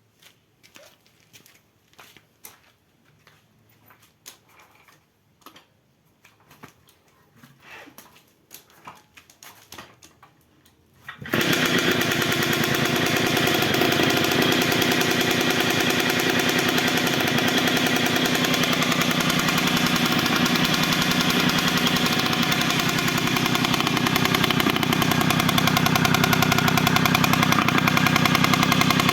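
Faint scattered clicks and knocks, then about eleven seconds in a Puch moped's 50 cc two-stroke single-cylinder engine is suddenly running, loud and steady.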